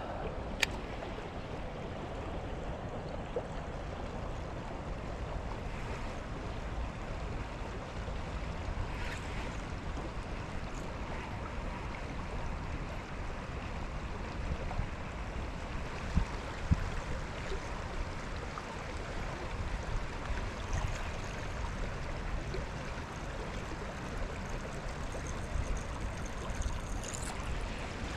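Steady wind and water noise around a small fishing boat, with a few short knocks, one about half a second in and a couple around the middle.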